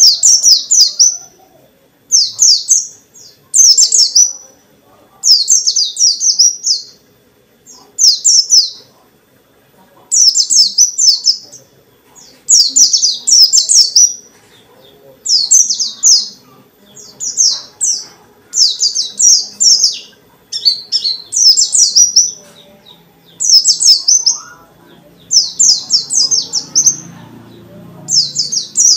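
A pleci (white-eye) of the dakun type singing in full, persistent form, giving short phrases of high, fast, twittering notes, each about a second long, with brief pauses between them, a new phrase every second and a half or so. A faint low rumble sits underneath near the end.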